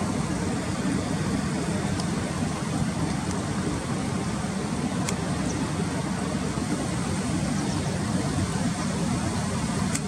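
Steady low background rumble, an even noise with no clear call or engine note, with a few faint clicks.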